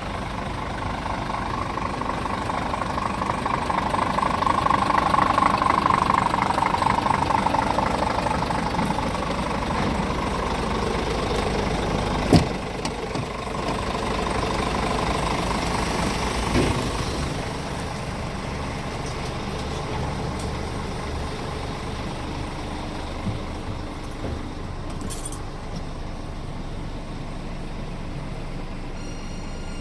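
Scania R410 truck's diesel engine running, growing louder a few seconds in and easing back to a steady idle. There is a sharp click about twelve seconds in and another short noise a few seconds later.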